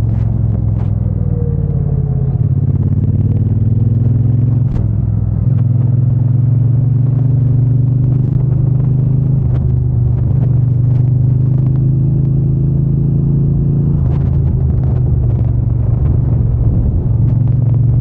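Exhaust and engine of a Triumph Bonneville T120 parallel twin running steadily while the bike is ridden. The engine note drops briefly about five seconds in, then carries on.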